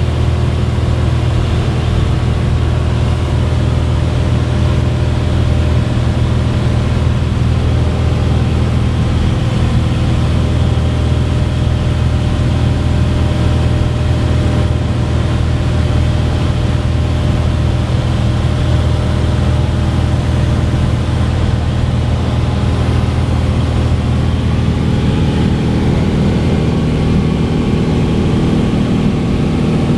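Cessna 182's single piston engine and propeller running with a steady drone, the tone shifting slightly about 25 seconds in.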